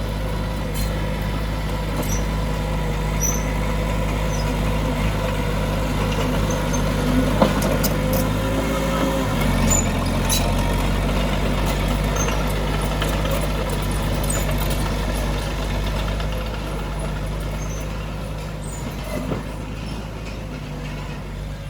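Heavy diesel earthmoving machinery running steadily, with scattered short metallic clanks. The engine note shifts about ten seconds in and eases slightly toward the end.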